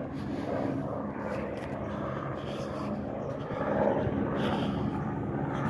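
Helicopter flying overhead: a steady engine and rotor drone.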